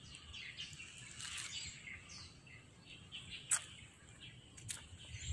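Small birds chirping faintly over low outdoor background noise, with a couple of brief sharp clicks near the end.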